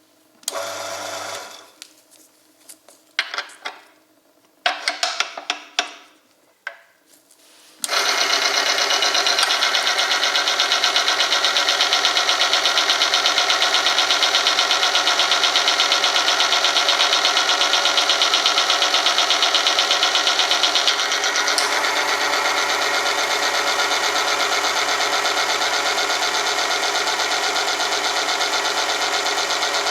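Oil film strength test machine starting up about eight seconds in and then running with a steady mechanical whirr over a constant hum; it drops a little in level about two-thirds of the way through. Before it starts, a few short clatters of handling.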